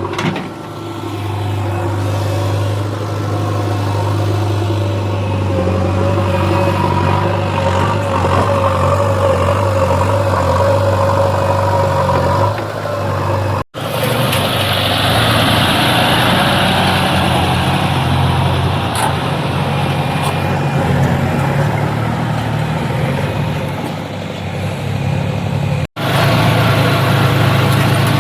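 Heavy machinery's diesel engine running steadily. It breaks off abruptly twice, about halfway through and again near the end, each time resuming with a slightly different sound.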